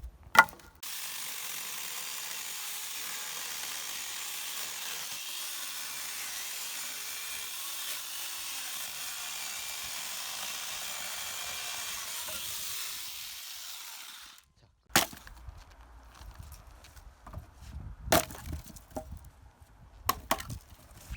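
Firewood being cut with a power saw: a sharp knock, then a steady cutting noise that runs about thirteen seconds and winds down, followed by a few separate knocks of wood.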